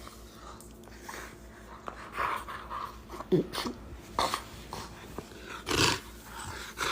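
A dog making a few short, separate play noises with its toy, the loudest a brief burst about six seconds in.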